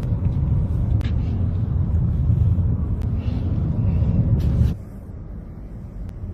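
A deep, steady rumble with a few sharp knocks. About three-quarters of the way through it cuts down abruptly to a quieter rumble.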